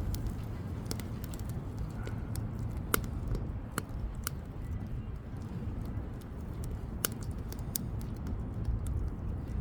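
Wood bonfire burning well, firewood crackling and popping at irregular moments over a steady low rumble, with a few louder pops about three, four and seven seconds in.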